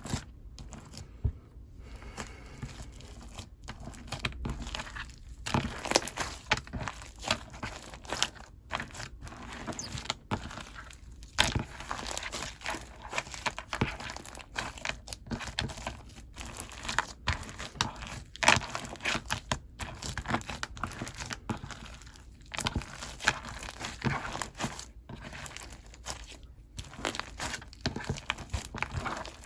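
Hands squishing, stretching and pressing a soft, fluffy clay slime, giving off a dense run of irregular small crackles and clicks.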